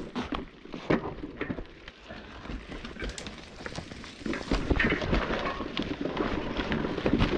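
Electric mountain bike riding over a rocky trail: tyres crunching over rocks and the bike rattling, with many small clicks and knocks. It grows louder and denser about four seconds in.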